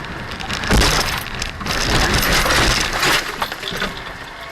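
Car collision picked up by a dash cam: a loud crash of impact about a second in, followed by a couple of seconds of clattering and clinking as glass and debris break and scatter.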